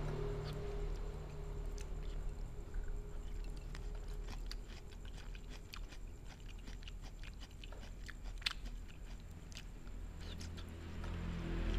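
Someone chewing sliced boiled cucumber, with small irregular wet clicks and a sharper click about eight and a half seconds in, over a low steady hum.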